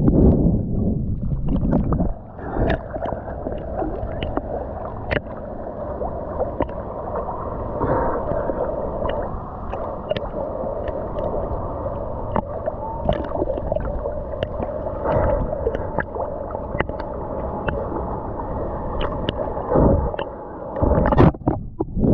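Ocean water sloshing and gurgling right at the microphone, with many small sharp clicks and knocks throughout. A faint steady tone runs through the middle stretch.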